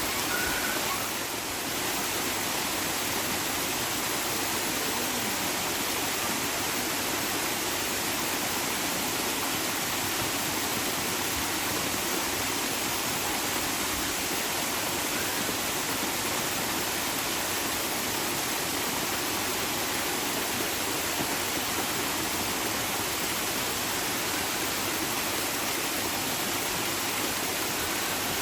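Running water rushing steadily, an even unbroken hiss with no distinct splashes.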